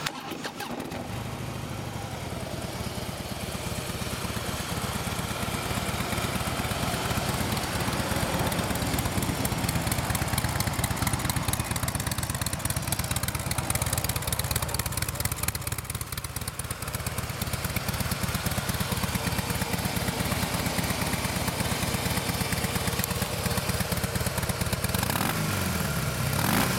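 A 2016 Harley-Davidson Softail Breakout's 103-cubic-inch fuel-injected V-twin starts up and idles steadily. Near the end it is revved a couple of times, revving up cleanly with the engine quiet.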